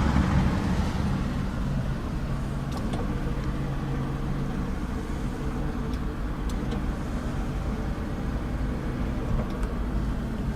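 Mazda 6 engine idling steadily, a low even hum, with a few faint clicks.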